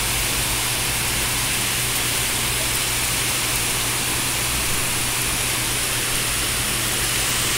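Heavy rain falling on leafy trees: a steady, even hiss with no thunder or single drops standing out.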